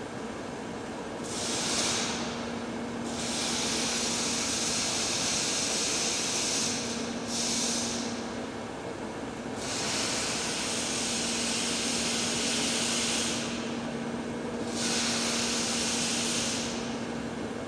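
TIG welding arc on heavy-wall 24-inch pipe: a steady hiss that drops out briefly several times and picks up again. A steady low hum runs underneath.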